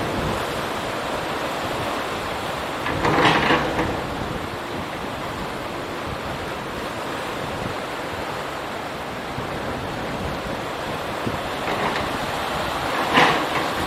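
Strong wind rushing over the microphone, together with the wash of sea water, as a steady noise. Two louder surges stand out: one about three seconds in and one near the end.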